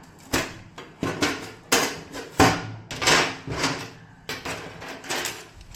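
Hard objects clattering and knocking, about ten sharp irregular hits with short scrapes between them, the loudest about halfway through.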